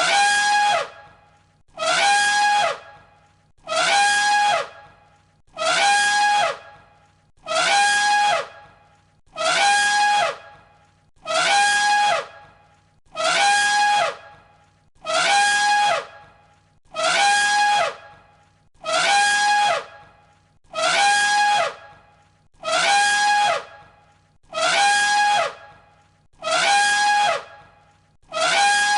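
Elephant trumpeting: the same short, brassy call repeated about every two seconds as a loop, each blast under a second long with a slight drop in pitch at its end.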